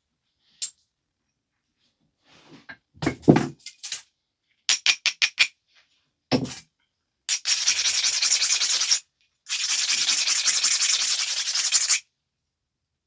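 Edge of a flint biface being ground with an abrader stone in two steady scraping passes, each about two seconds long, the usual way of preparing the platforms before the next flakes are removed. Earlier, a handful of sharp clicks and knocks of stone and tool on the piece.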